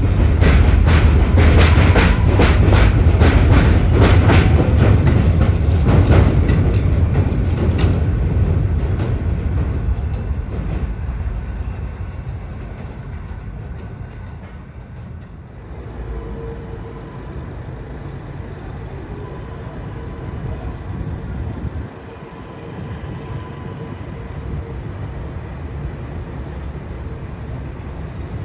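R188 subway train passing, its steel wheels clacking rapidly over the rail joints, then fading away over the next several seconds. A quieter steady rumble follows, with a faint steady hum appearing about halfway through.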